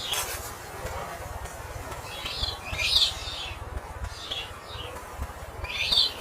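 A small bird chirping in three short clusters of quick high calls, over a steady low rumble.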